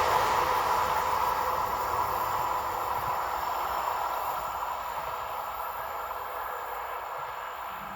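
A passing train's rumble and rail noise fading steadily as it moves away.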